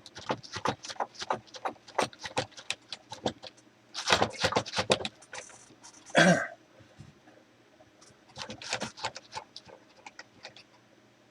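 Rapid, irregular clicks and short rattles of metal being handled, as a long leadscrew is wound out of a milling table.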